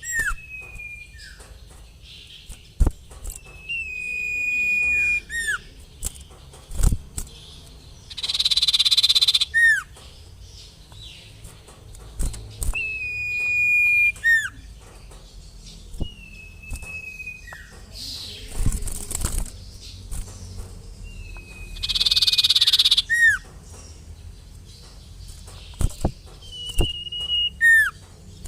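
Common iora (sirtu) calling: a long drawn-out whistle that sags slightly in pitch, then a quick down-slurred note, repeated about every five seconds. Three loud harsh rasping bursts come between the whistles, and a few soft thumps.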